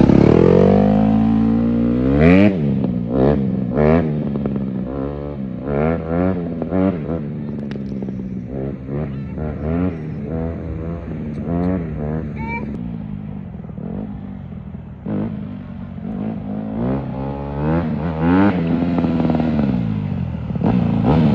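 Dirt bike engine revving in a run of short rises and falls in pitch, one after another. It fades somewhat in the middle and grows louder again near the end.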